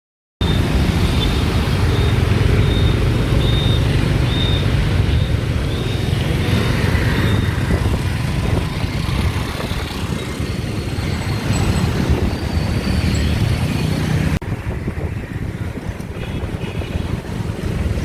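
Street traffic noise: a steady wash of passing vehicles, with an abrupt change in the sound about three-quarters of the way through.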